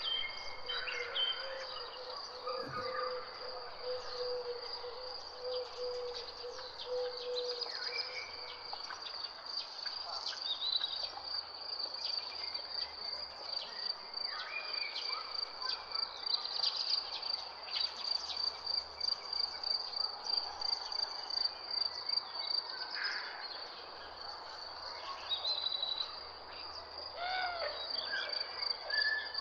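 Nature ambience: a continuous high insect trill with various birds chirping and calling over it, and a low steady tone during the first eight seconds or so.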